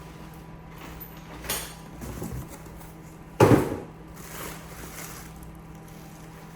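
Exhaust parts and packaging being handled during unboxing: a few rustles and knocks, with one loud thump about three and a half seconds in, over a steady low hum.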